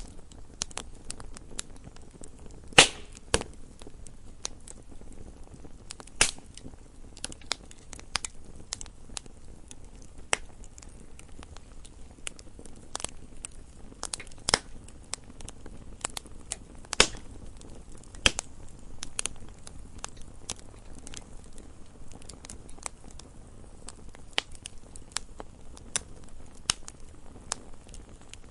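Campfire crackling: a steady low hiss of burning wood with irregular sharp pops and snaps, a few louder ones standing out.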